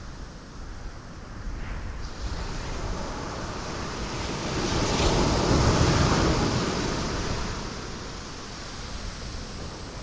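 Ocean waves breaking on rocks: a steady wash of surf, with one wave crashing and swelling loudest around the middle, then ebbing away.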